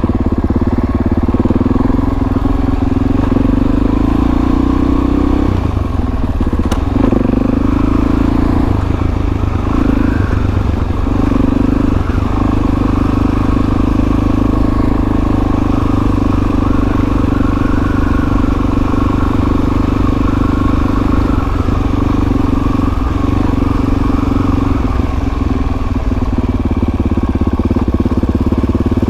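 Dirt bike engine running steadily at low revs while being ridden, its note dipping briefly now and then.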